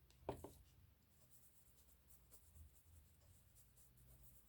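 Faint scratching of a pen on paper, close to silence, with two light taps about a third of a second in.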